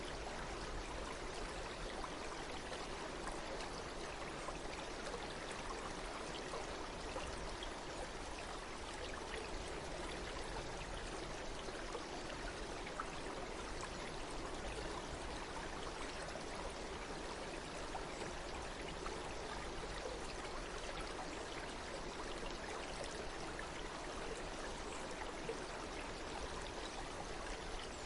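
Water flowing steadily, an even unbroken rush without music.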